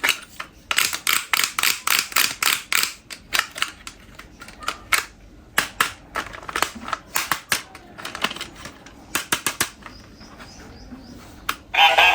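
Sharp plastic clicks and clacks from toy vehicles and their packaging being handled during unboxing, in irregular clusters and quick runs with short pauses. Music starts right at the end.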